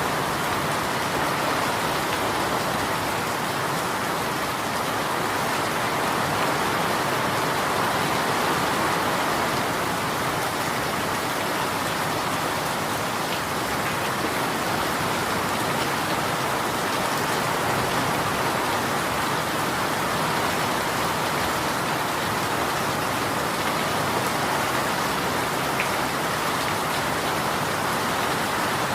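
Steady rain falling on a surface, a continuous even hiss of drops without letup.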